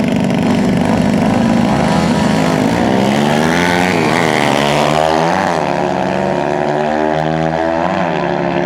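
Dirt bike engines revving hard, their pitch repeatedly rising and dropping.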